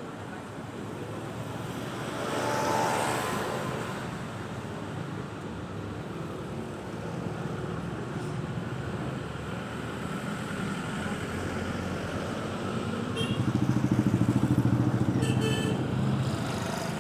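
Road traffic with vehicles going by: a swell of passing traffic about three seconds in, and a louder engine passing near the end with a low, fast pulsing.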